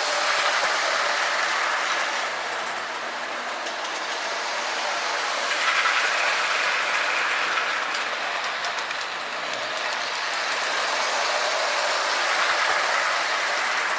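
K-Line 3-rail O-gauge toy train, an S2 diesel switcher pulling freight cars, running around the layout: a steady rolling rumble of wheels and motor on the track that swells and fades about every six seconds as the train comes by and goes away again.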